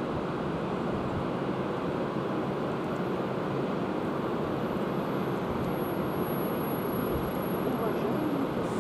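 Steady rolling noise of a passenger train's coaches running over the rails as the train pulls away.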